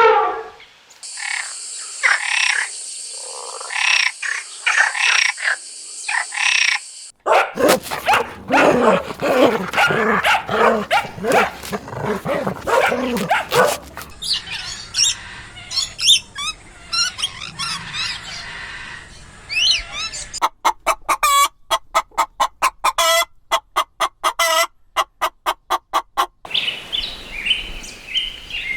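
A run of different animal calls cut one after another, mostly bird chirps and calls. The calls change suddenly several times, and near the end comes a rapid series of short repeated calls.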